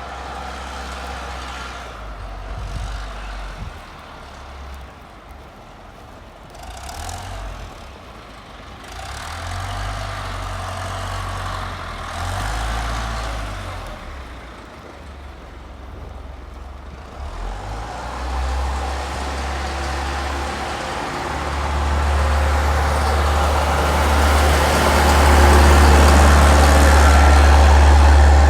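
Wind buffeting the microphone in gusts during a snowstorm, over a haze of outdoor street noise that grows louder over the last few seconds.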